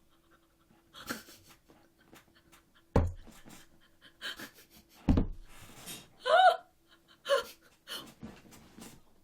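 A woman breathing close to the microphone: short audible breaths and exhalations, two of them stronger, with a low thump about three and five seconds in. About six and a half seconds in there is a brief pitched vocal sound, rising then falling.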